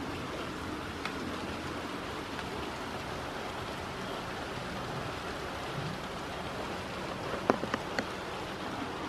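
Steady rain falling. About three-quarters of the way through, a quick run of four sharp knocks cuts through, the first the loudest.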